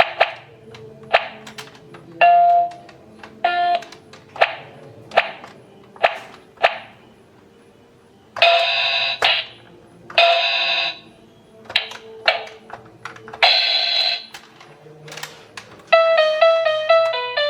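Toy electronic organ sounding its built-in percussion voices one hit at a time: short drum and wood-block-like beats with a few brief pitched blips and three longer cymbal-like crashes. Near the end a quick electronic melody of beeping notes starts up, a sign the organ's sound is working again.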